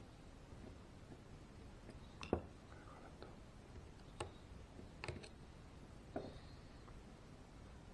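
A few faint, scattered clicks and light taps, about five in all, of small RC car parts and hand tools being handled.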